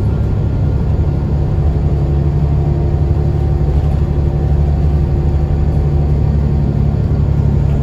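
Scania L94UB bus's DSC9 nine-litre six-cylinder diesel running steadily under way, a constant low drone with no clear gear change.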